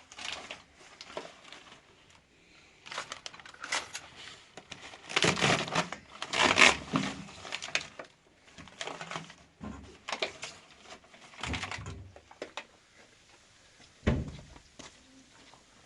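Irregular rustling and clattering of objects being handled, loudest about five to seven seconds in, with a low knock about fourteen seconds in.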